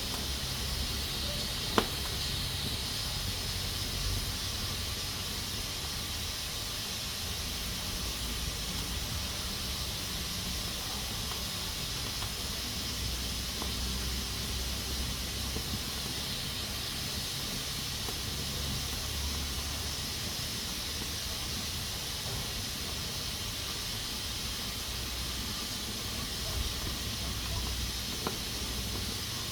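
Pressure cooker steadily hissing as steam escapes from its valve under pressure. A single sharp click sounds about two seconds in.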